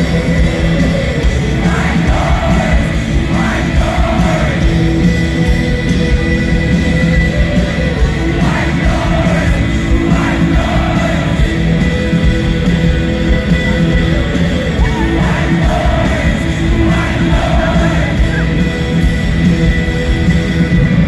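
Live rock band playing loudly, with a singer's voice coming and going over the music and a crowd yelling along.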